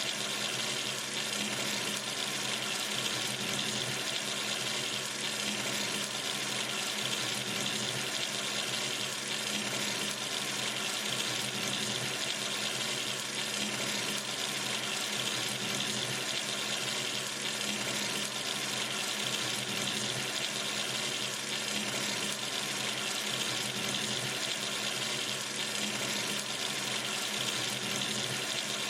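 Sink tap running steadily, water splashing into the basin in an even, unbroken rush.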